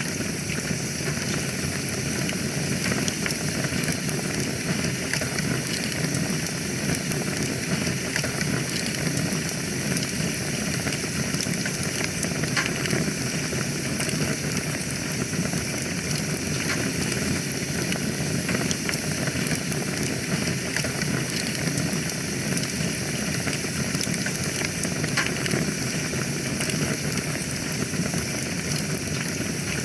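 Wood fire burning in a fireplace: a steady hiss and rumble with many small scattered crackles and pops.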